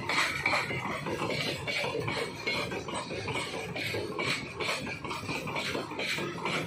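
Empty RoRo flat wagons of a freight train rolling past, a steady run of metallic clanking and rattling from the wheels and the bare wagon frames over the rails.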